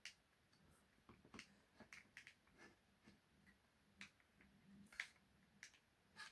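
Near silence broken by about a dozen faint, sharp clicks and taps at uneven intervals: small parts and tools being handled while an RC car's front end is dismantled.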